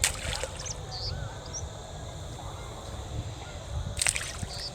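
Outdoor ambience: low wind rumble with short, high bird chirps repeating every second or so, and two sharp clicks, one at the start and one about four seconds in.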